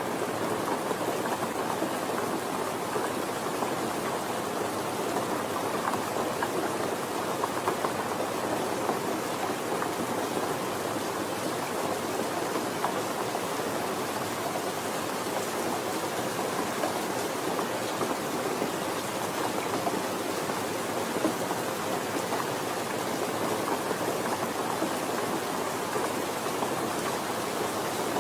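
Steady rain falling, an even patter of drops on surfaces.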